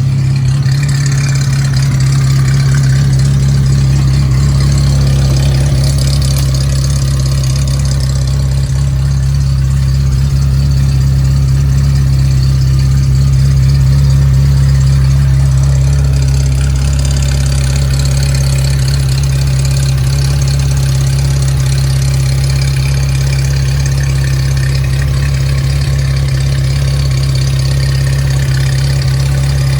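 Ferrari Mondial 3.2's V8 engine idling steadily while warming up from a cold start.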